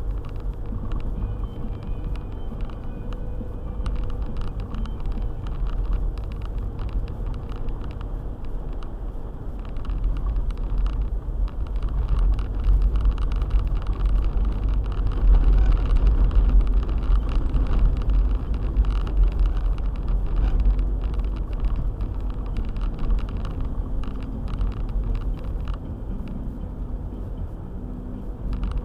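Car driving: a continuous low rumble of engine and tyre noise that swells louder through the middle and then eases off again.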